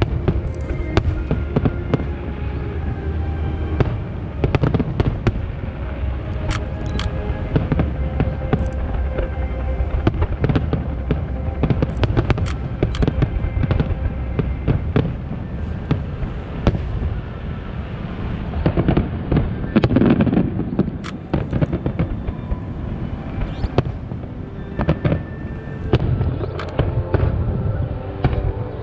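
Aerial fireworks shells bursting one after another in a dense, continuous run of sharp bangs, with music playing alongside.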